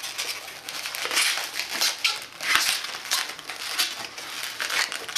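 Hands bending and twisting an inflated latex modelling balloon: the rubber rubs and crinkles in an irregular run of scratchy sounds.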